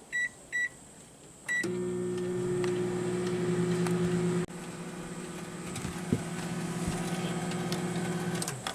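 Microwave oven keypad beeping three times, then the microwave starting up and running with a steady electrical hum, which drops slightly in level about halfway through.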